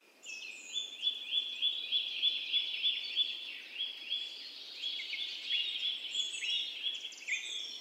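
Bird singing, a long series of short, high chirps repeated about three times a second.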